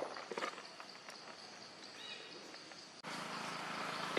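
Outdoor ambience with a steady high insect drone, a few sharp clicks near the start and a brief chirp about two seconds in. About three seconds in it cuts abruptly to a louder, even hiss.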